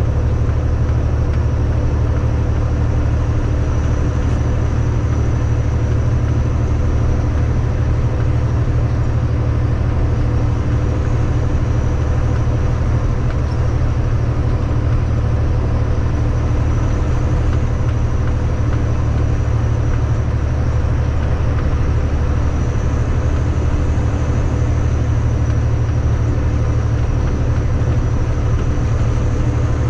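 Kenworth W900 semi-truck on the move: a steady, low engine and road drone with a faint constant hum above it, unchanging throughout.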